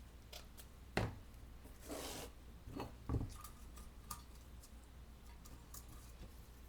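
Paper and craft tools handled on a tabletop: a sharp knock about a second in, a short scraping rustle near two seconds, a low knock just after three seconds, and scattered light clicks.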